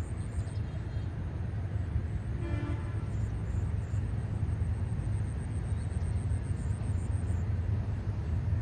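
Low, steady rumble of a distant diesel train approaching, mixed with surrounding traffic, and one short horn toot about two and a half seconds in.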